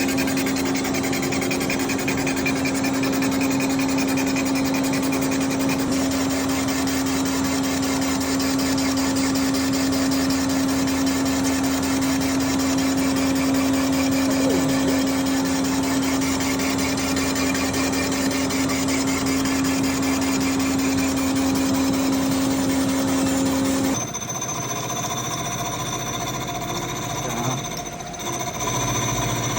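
Machine-shop machinery running with a steady, constant hum. About 24 seconds in, the sound changes abruptly to a lower hum with a thin high whine.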